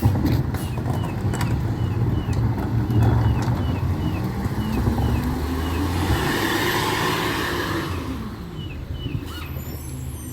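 Diesel engine of a recycling truck running and revving up, its pitch rising through the middle and falling back near the end, with a hiss partway through.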